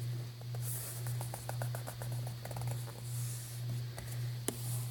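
Paper and craft supplies being handled on a work table: soft rustling and scattered light taps, with one sharper click about four and a half seconds in, over a steady low hum.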